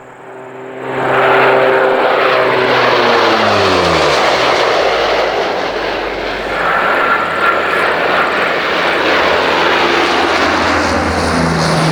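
Lockheed P-3K Orion's four Allison T56 turboprop engines making a low pass: the sound swells about a second in, the propeller drone drops in pitch as the aircraft goes by, then a steady loud rush of engine noise follows.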